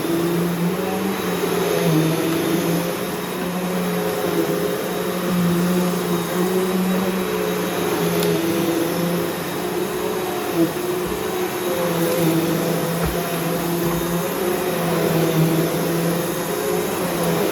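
Bissell PowerGroom Multi-Cyclonic upright vacuum cleaner running steadily while vacuuming, its motor hum shifting slightly in pitch every second or two. There is one brief knock about ten seconds in.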